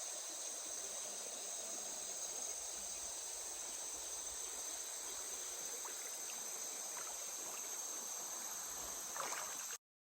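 Steady chorus of insects holding several high-pitched tones at once, over a soft background hiss, with a brief knock near the end.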